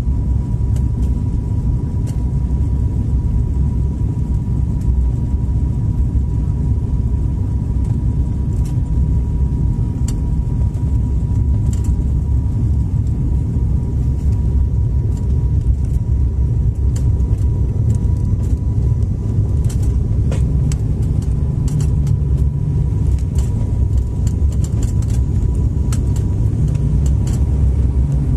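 Airliner cabin noise: a steady low rumble with a constant thin whine from the engines. Light clicks and rattles from cabin fittings become more frequent in the second half.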